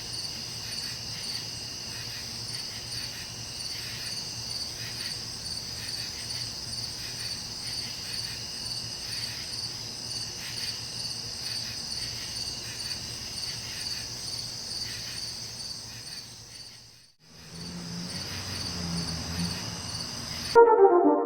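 Crickets chirping in a steady, evenly pulsing high trill. Near the end the trill cuts out briefly, a low hum comes in, and then loud brass music starts.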